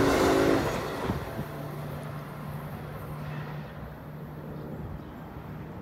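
An Amtrak train's horn sounds a last short blast over the rumble of the passing train, ending about half a second in. The train noise then fades away, leaving a steady low hum.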